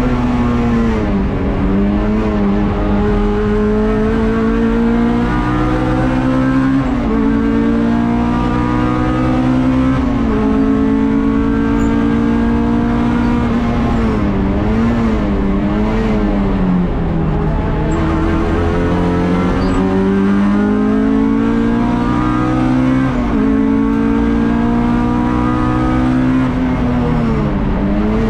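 Honda Civic 1600 race car's four-cylinder engine driven hard, heard from inside the stripped, caged cabin. The pitch climbs steadily through each gear and drops sharply at every shift, with a few quick up-and-down blips on downshifts.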